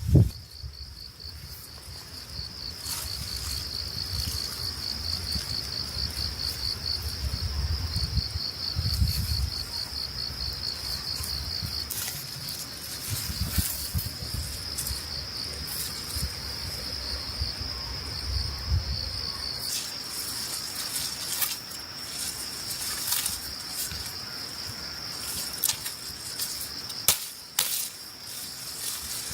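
Field insects trilling in a continuous high, pulsing drone, with low rumbling noise under it for about the first two-thirds and a few scattered clicks.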